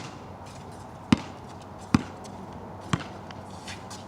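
A basketball bouncing on a wet outdoor court: four sharp thuds about a second apart, one right at the start and three more.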